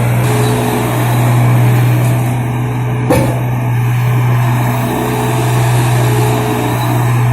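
Engine of a 1.8-tonne crawler mini excavator running steadily under load, with a higher hydraulic whine that comes in twice as the hydraulics work. One sharp knock about three seconds in.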